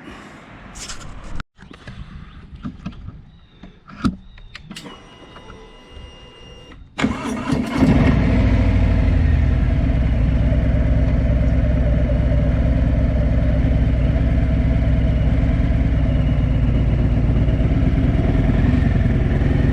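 Harley-Davidson Softail Heritage V-twin engine cranked and started about seven seconds in, then idling steadily. Before that there are only a few faint clicks and knocks and some short high electronic beeps.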